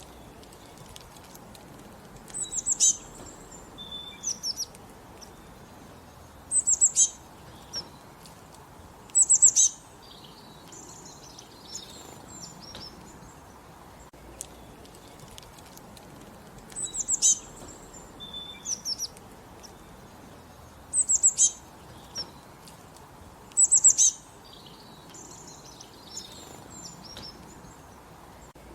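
Birds singing: a short, high-pitched phrase repeated every few seconds, with softer chirps between, over a faint steady hiss.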